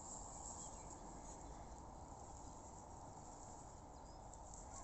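Quiet outdoor ambience: a faint, steady, even hiss with no distinct events.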